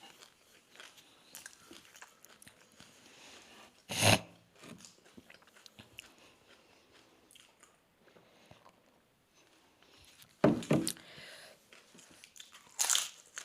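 Doi fuchka being eaten: crisp puri shells filled with yogurt being bitten and chewed, soft chewing throughout with three short, louder crunches, one about four seconds in and two near the end.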